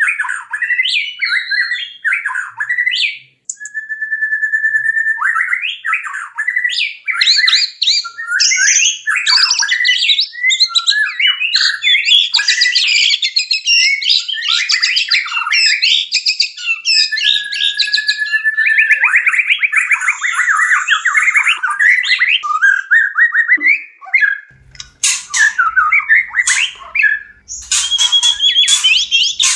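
White-rumped shama (murai batu) in courtship song: a long, varied stream of clear whistles, rapid trills and harsh scolding notes. In the last few seconds the notes turn sharper and clickier over a faint low hum.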